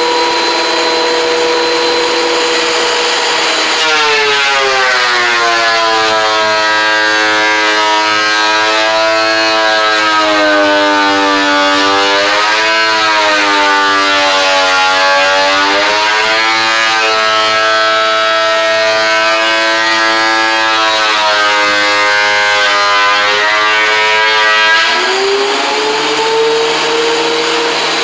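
A woodworking power tool's motor running free with a steady whine. About four seconds in it bogs down to a lower, wavering pitch as a board feeds through and is cut under load. Near the end it speeds back up to its free-running pitch as the board clears.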